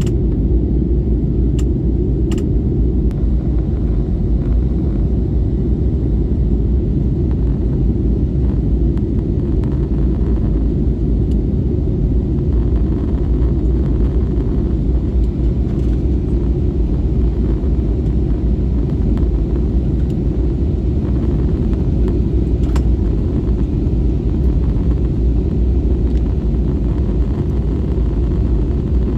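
Steady, loud low rumble of a jet airliner, unchanging throughout.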